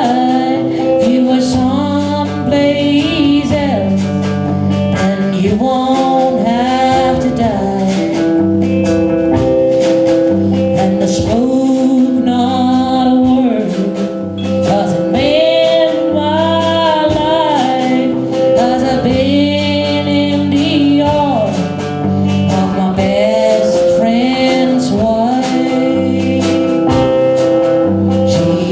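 Live country-style band music: acoustic guitar accompaniment under a wavering melody line, played without a break.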